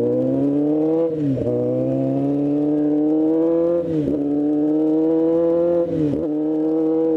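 Honda CBR600's inline-four engine accelerating through the gears: the pitch climbs steadily, then drops sharply at three upshifts, about one, four and six seconds in.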